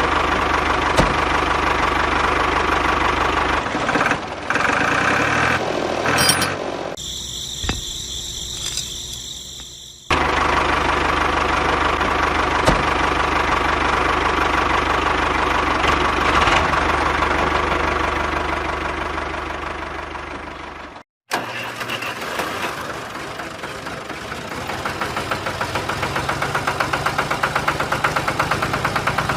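A motor running steadily, broken by abrupt cuts between takes, one of them a brief dropout to silence about 21 seconds in.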